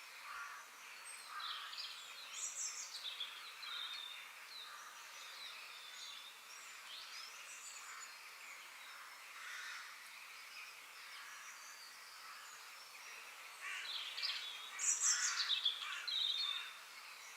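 Several songbirds chirping and warbling over a steady background hiss, with a livelier burst of song near the end.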